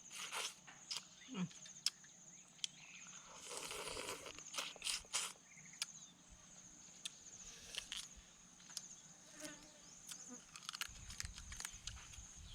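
Raw blue crab shell cracking and crunching while being gnawed and chewed close up: irregular sharp cracks and crunches. Under it runs a steady high insect drone.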